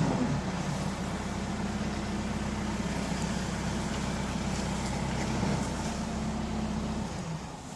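A motor vehicle's engine running steadily with a low hum, fading away about seven seconds in.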